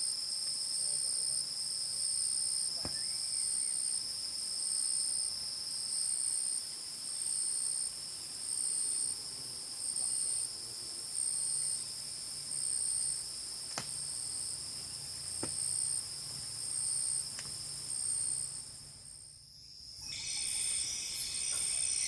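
Night-time insect chorus: a steady high trill with a second, higher trill pulsing at an even rate, swelling and fading about once a second. Near the end it dies away briefly and a different chorus with several pitches takes over. A few faint clicks.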